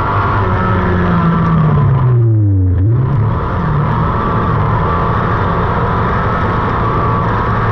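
Race car engine running hard under load. A little over two seconds in, the revs drop briefly as the throttle is lifted, then the pitch climbs again and holds steady as the car drives on.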